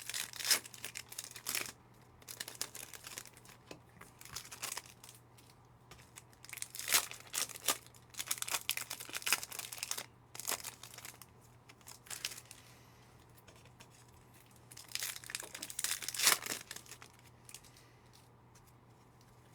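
Trading-card pack wrappers being torn open and crinkled by hand, in a few bursts of rustling with quieter gaps between.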